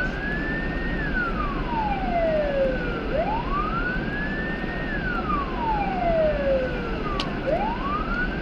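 Police car siren on a wail cycle, over steady engine and road noise. Each cycle rises quickly in under a second, holds briefly at the top, then falls slowly over about two seconds, repeating roughly every four seconds.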